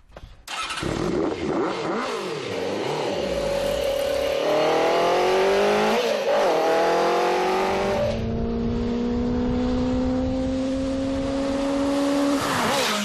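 Velorex three-wheeler's two-stroke engine starting about half a second in and revving, its pitch climbing repeatedly as the car pulls away, then running steadily with a slowly rising pitch as it accelerates along the road.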